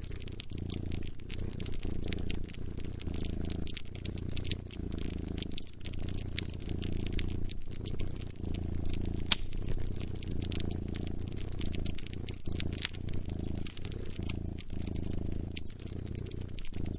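A cat purring close up, a low rumble that swells and dips with each breath, over a wood fire crackling with frequent sharp pops and snaps.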